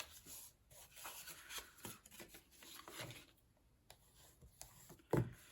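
Cardstock being handled and folded along its score lines: soft rubbing and rustling of card with small ticks, and one sharper knock near the end.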